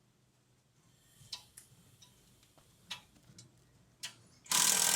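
Scattered light clicks and taps of metal tools or parts being handled, then a sudden loud, harsh rush of noise near the end.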